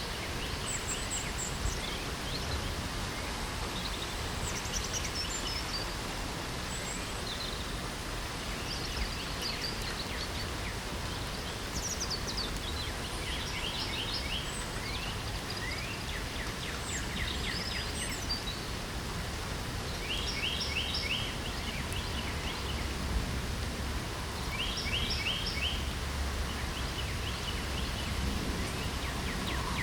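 Steady light rain falling, with birds singing over it: short high chirps early on, and from about halfway a bird repeating a quick trill every few seconds.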